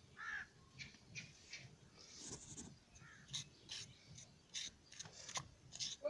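Faint, scattered bird calls and small clicks, with one short falling call about a third of a second in.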